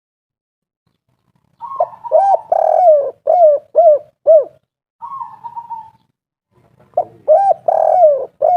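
Spotted dove (tekukur) singing the 'kuk 3' song twice. Each phrase opens with a soft lead-in note, rises into a longer coo, and ends in three short clipped 'kuk' notes.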